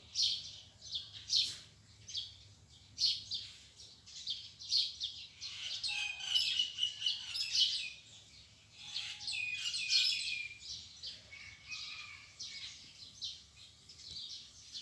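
Small birds chirping and twittering, a steady stream of short high notes with a few longer whistled phrases.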